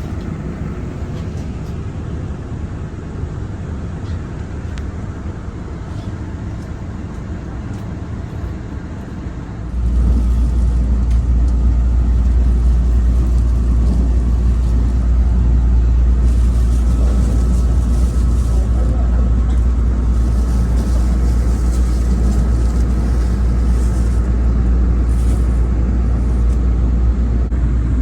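Steady train running noise, a rumble with no clear tones. About ten seconds in it steps up suddenly, becoming much louder and deeper.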